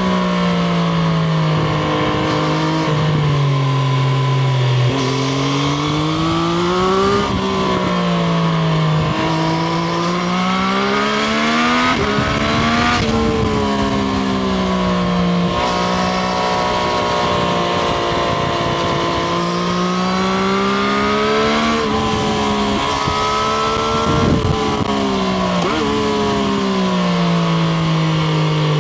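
Triumph Street Triple RS's 765 cc inline-three engine heard onboard, its revs climbing and falling again and again. The pitch jumps sharply at gear changes as the bike accelerates and slows.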